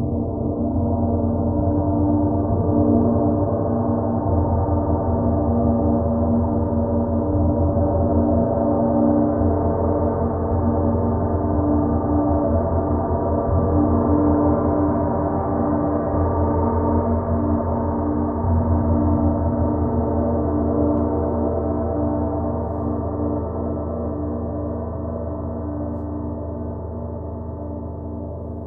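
Gong ringing continuously: a dense, sustained wash of overtones over a deep pulsing hum, slowly fading over the last several seconds.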